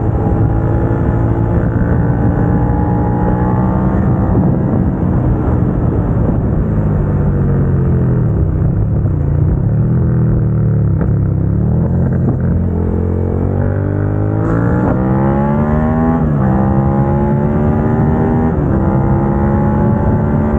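2022 Suzuki SV650's 645 cc V-twin engine through a Dominator GP aftermarket exhaust, heard from the rider's seat under way. The revs climb, fall away as the bike slows about halfway through, then climb again with two quick upshifts in the last few seconds. Wind noise runs underneath.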